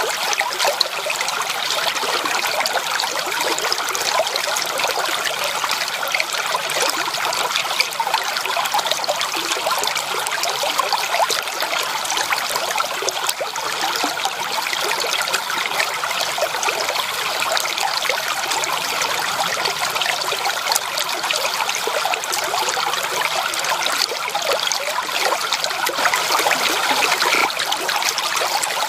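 Running water in a stream or small waterfall: a steady splashing, bubbling rush with fine trickling detail that holds even throughout.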